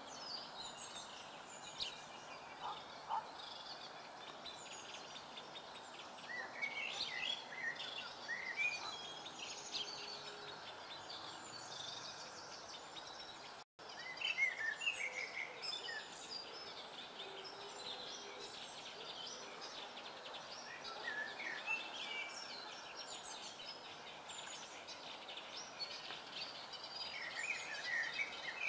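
Songbirds singing, with short chirping phrases coming and going over a steady outdoor hiss. The sound cuts out for an instant about halfway through.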